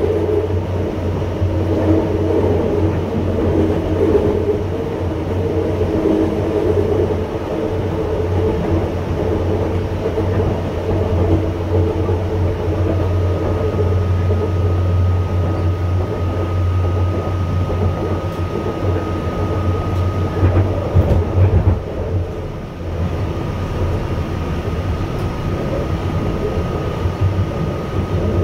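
Interior of a moving UTDC ICTS Mark I train, a linear-induction-motor rapid-transit car, heard in the cabin: steady running noise with a strong low hum. A thin, steady high tone comes in about halfway through. The low hum eases off a little near the end.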